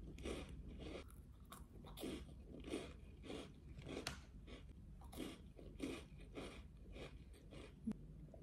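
Close-miked chewing of small crisp round crackers: steady crunches about one and a half times a second. A short gulp comes near the end.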